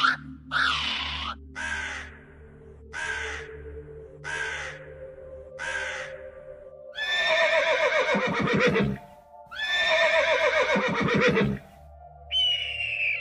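A series of bird calls over steady background music. First comes a run of shrill, repeated whistles given as a kiwi's call, fading over the first six seconds. Next, two long, loud, harsh raven calls that drop in pitch at the end. Just after twelve seconds a hawk gives a single high scream that falls in pitch.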